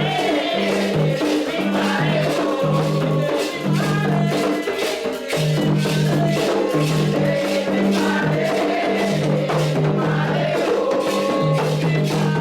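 Candomblé ritual music: steady drumming with many rapid strikes, shaken rattles and singing.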